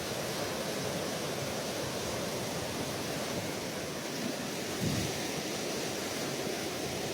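Sea surf washing steadily, an even hiss of waves, with a brief low rumble of wind on the microphone about five seconds in.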